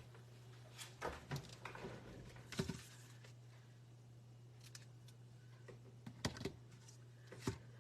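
Scattered light clicks and knocks of scissors and craft materials being picked up and handled on a work table, over a steady low hum.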